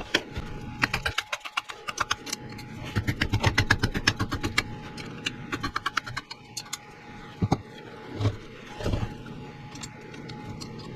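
Socket ratchet clicking in quick runs while the cylinder bolts of a two-stroke motocross engine are backed off. A few separate metallic knocks follow later on.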